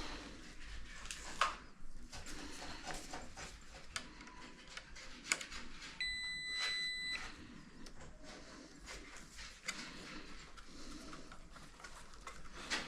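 Scattered light clicks and knocks of handling on a workbench, with one steady electronic beep lasting about a second midway.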